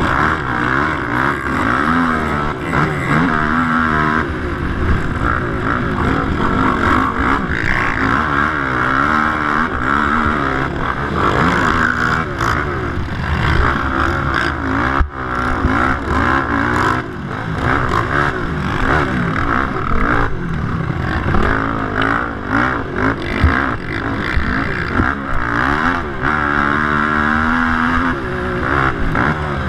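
Race quad engines running hard, their revs rising and falling over and over as the quads accelerate, shift and back off around a motocross track.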